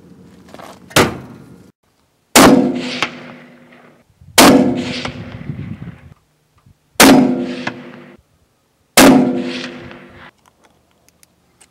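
Gunshots: a lighter one about a second in, then four loud shots about two seconds apart, each followed by a ringing metallic clang that dies away over a second or so.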